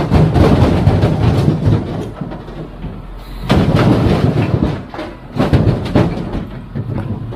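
Heavy machinery clattering and rattling in three loud bursts of metal knocks over a low engine rumble.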